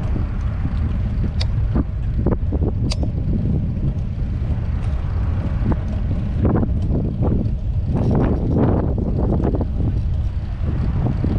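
Wind buffeting the microphone of a camera on a moving bicycle, a steady low rumble, with scattered clicks and short rattly bursts from the ride.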